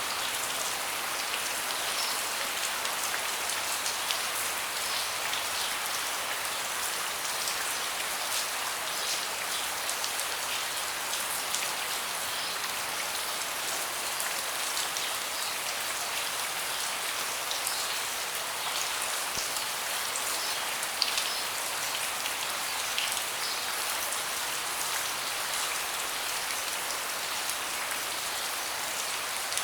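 Steady rain falling on a deck: an even hiss with many individual drops ticking sharply throughout, one a little louder about two-thirds of the way through.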